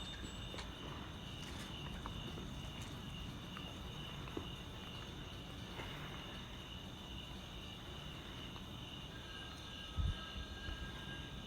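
Steady high-pitched insect chirring, as of crickets on a warm night, with a low rumble rising near the end.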